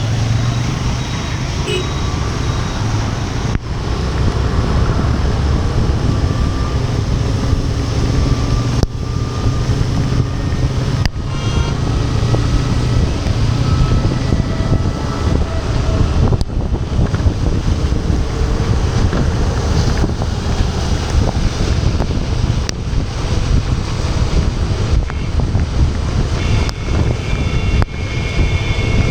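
Wind buffeting the microphone over a continuous low rumble of riding in the rain through traffic. A steady high tone sounds near the end.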